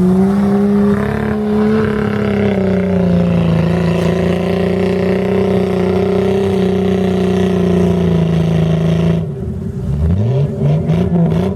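Mud truck engine held at high revs for about nine seconds. Near the end it drops off and revs back up in quick rising pulls.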